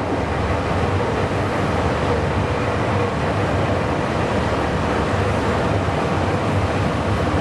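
Meitetsu 9500-series electric train running, heard from inside the car: a steady low rumble of wheels on rail and traction motors.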